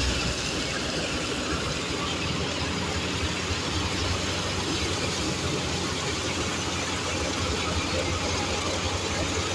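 Tractor engine running steadily with a constant low hum, under a continuous dense mechanical noise.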